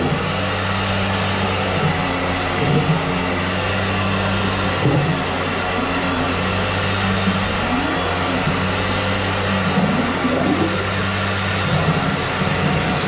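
An electric motor running steadily with a low, even hum, with brief wavering sounds over it a few times.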